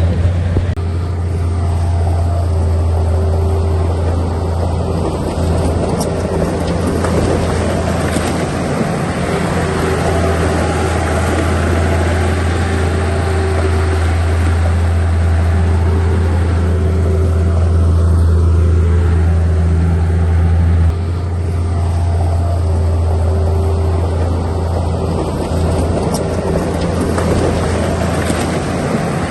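Heavy construction-machine diesel engine running steadily with a deep, even hum; the low note shifts down a little about two-thirds of the way through.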